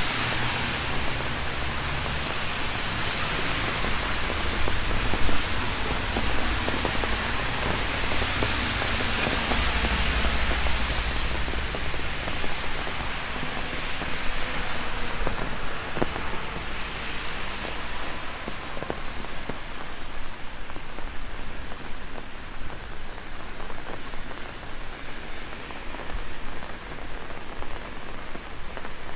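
Heavy rain falling and pattering on an umbrella overhead, a dense steady hiss with separate heavy drops ticking in the second half. A low rumble sits under the rain for about the first half.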